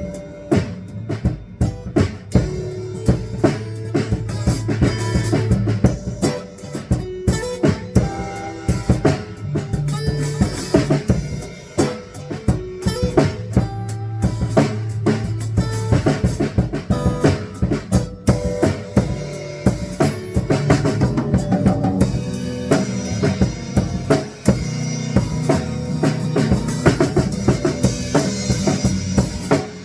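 Live band playing an instrumental jam: drum kit with kick and snare keeping a steady beat, over electric guitar and bass.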